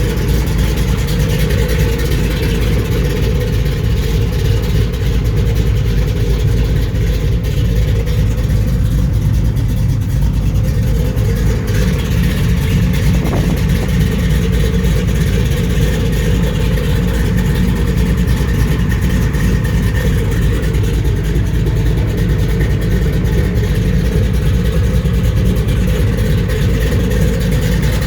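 1989 GMC truck's built 400 small-block V8 running steadily at a constant, loud level.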